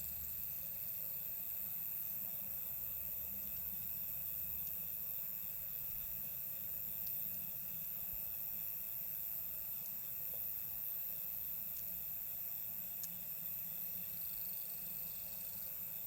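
A steady chorus of night insects trilling in several high-pitched bands, with a few faint crackling pops from a campfire.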